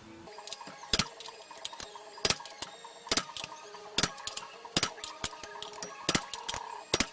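Sharp metallic clicks and clinks of hand tools working on metal, spaced irregularly about once a second, with a faint ring after some of them.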